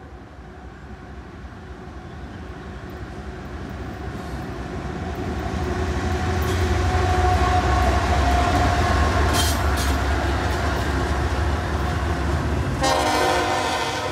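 Diesel freight train approaching and passing, its low engine rumble building to its loudest about halfway through, with wheel noise on the rails. The locomotive horn sounds near the end.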